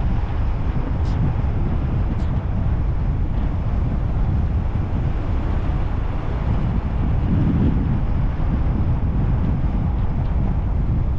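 A car on the move: steady low rumble of wind buffeting the microphone mixed with tyre and engine noise.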